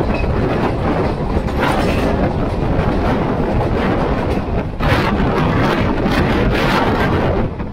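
Passenger express train running at speed, heard from on board: wheels clattering over the rails under a steady rumble of the coaches.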